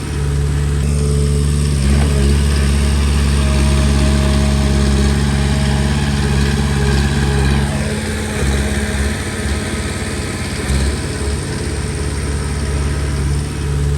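Komatsu D20P crawler bulldozer's diesel engine running under load with a steady, loud note. About eight seconds in, the note dips and wavers unevenly, then steadies again near the end.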